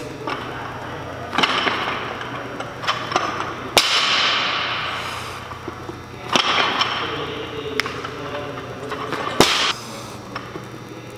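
Barbell with bumper plates in a snatch set: two sharp bangs, about four and nine and a half seconds in, as the bar comes down on the platform, with smaller knocks and clatter between.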